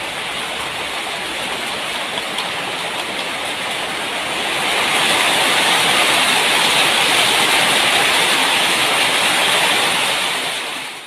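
Heavy rain falling, a steady hiss that grows louder about four and a half seconds in.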